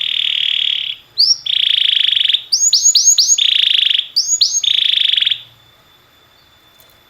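Domestic canary singing: four rapid rolling trills, each about a second long, broken up by quick down-slurred whistled notes. The song stops about three-quarters of the way through.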